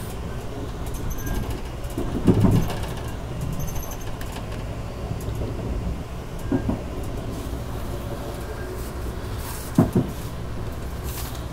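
Amtrak passenger coach running on the rails, heard from inside the car: a steady low rumble, with three short, louder knocks about two seconds in, midway and near the end.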